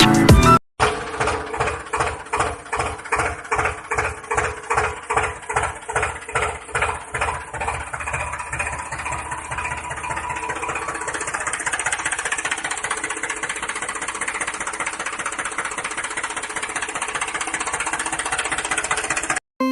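Small engine of a miniature model tractor starting up: slow, separate thumps at about three a second that quicken and merge into a steady run after about ten seconds.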